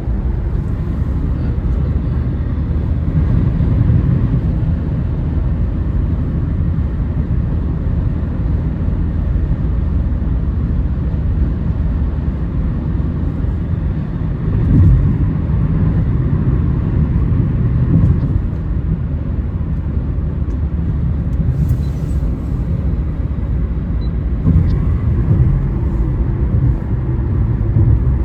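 Steady low rumble of a car driving, road and engine noise heard from inside, with a few brief louder swells.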